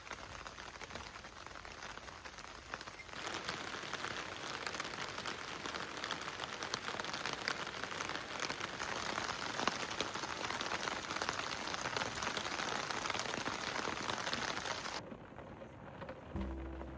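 Steady rain falling, heavier from about three seconds in, then dying away shortly before music comes in near the end.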